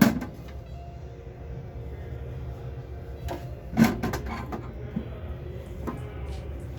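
A few scattered knocks and clunks, the loudest about four seconds in, over a steady low hum of room noise.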